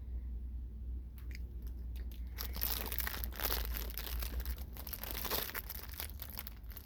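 Crinkling and crackling of a Twinkie's plastic wrapper being handled, starting about two seconds in and going on in irregular crackles, over a steady low hum.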